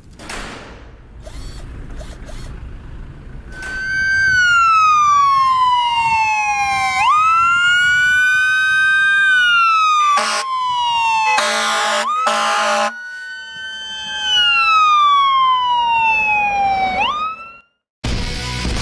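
Fire truck siren: after a few seconds of low vehicle rumble, a loud wail that sweeps slowly down and jumps back up, broken about ten seconds in by three short horn blasts before the wail resumes. It cuts off a second before the end.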